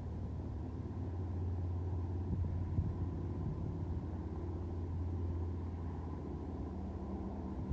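Steady low engine rumble, as of a motor vehicle running.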